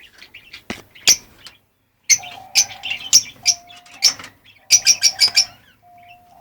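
Lovebirds giving sharp, high-pitched chirps in quick runs. After a short pause the chatter picks up into busier bursts.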